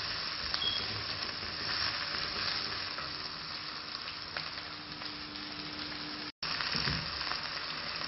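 Chopped onions, garlic, ginger and green chillies sizzling as they sauté in hot oil in a stainless steel kadai, stirred with a wooden spatula. The sound drops out for an instant a little after six seconds in.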